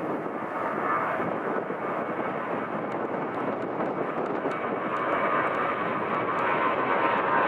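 Jet airliner engines running, a steady rushing noise with a faint whine that slowly grows louder.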